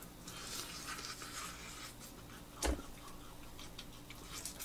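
Someone chewing a mouthful of butter-fried toast, a faint crackly noise, with a single thump about two and a half seconds in.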